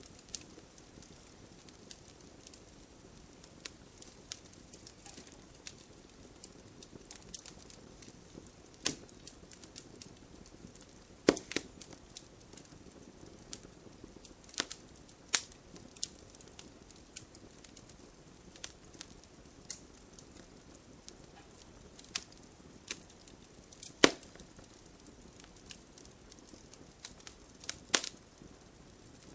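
Wood bonfire crackling, with irregular sharp pops, the loudest about 11 and 24 seconds in, over a faint steady hiss of light rain.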